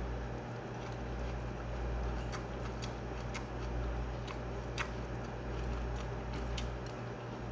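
A person chewing a mouthful of food, with scattered small wet clicks and smacks from the mouth, over a steady low hum.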